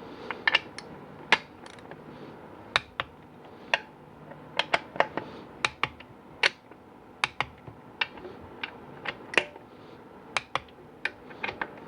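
Click-type torque wrench on the pump bolts of a GM 4L80E transmission, giving sharp clicks one after another at irregular spacing, some in quick pairs. Each click signals a bolt reaching its set torque of 18 foot-pounds.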